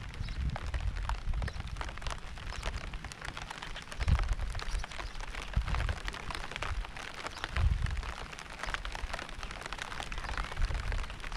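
Steady rain falling, a dense hiss with many separate drops ticking. Low rumbles come and go underneath, strongest about four and seven and a half seconds in.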